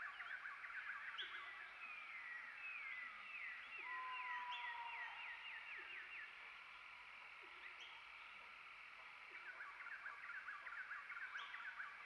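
Faint forest bird chorus: runs of rapid, short down-slurred chirps come and go, with one steady whistled note about four seconds in.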